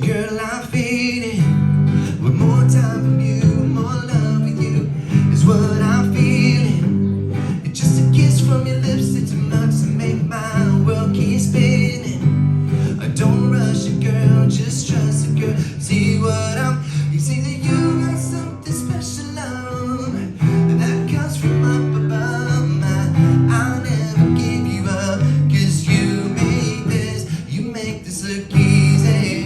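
Live acoustic guitar strummed through a song, with a man's singing voice at times.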